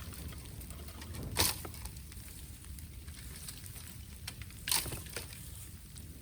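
Bamboo burning in a bonfire, crackling with small ticks and giving two sharp pops, about a second and a half in and again near five seconds, as bamboo sections burst in the heat. A steady low background noise runs underneath.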